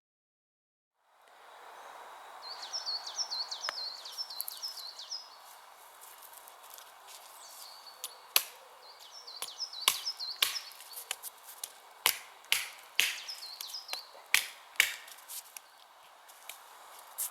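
Outdoor ambience with a bird chirping in short repeated phrases, and from about eight seconds in a series of sharp knocks and snaps.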